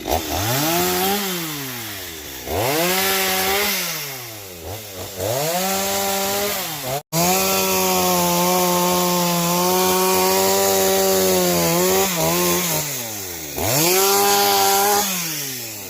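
Two-stroke chainsaw revved up and let back to idle several times, with one long hold at full throttle of about five seconds in the middle, cutting up the fallen tamarind tree.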